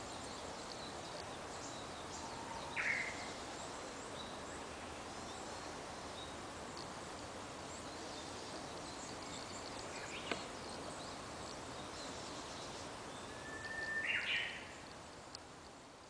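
Short calls of a red-flanked bluetail over a steady background hiss: one brief call about three seconds in, and near the end a thin whistle running straight into a louder, rougher note. A single sharp click sounds about ten seconds in.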